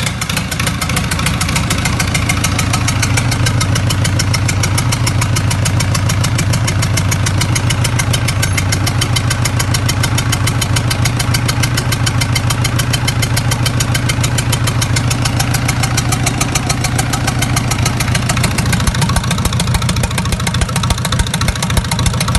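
Xinchai NB485BPG four-cylinder diesel engine running at a steady idle, with a fast, even beat. It grows slightly more uneven in loudness near the end.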